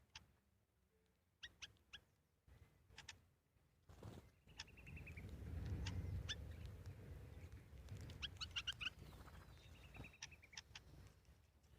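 Small birds chirping faintly: scattered short chirps, with a brief trilled call about four and a half seconds in and again near ten seconds. A low rumble runs under the middle of it.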